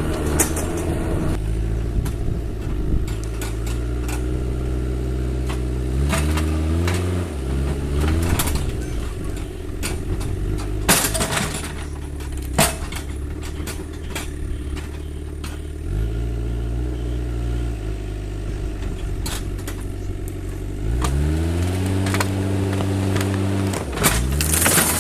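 Diesel engine of heavy forestry machinery running, revving up in pitch twice and settling back, with sharp cracks and knocks throughout.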